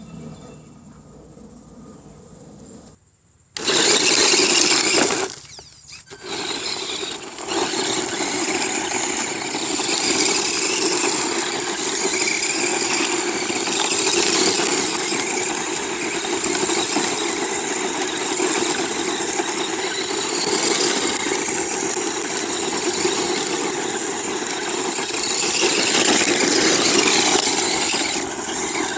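Redcat Racing RC truck's motor starting up suddenly about three and a half seconds in, cutting out briefly a couple of seconds later, then running loud and continuously, its level swelling and dipping.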